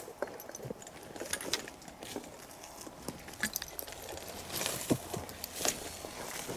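Footsteps on a forest floor: irregular crunches and snaps of leaves and twigs underfoot, with a couple of sharper snaps about five seconds in.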